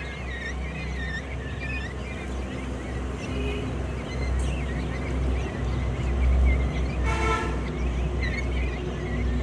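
A flock of quail chirping continually, with a single short honk about seven seconds in.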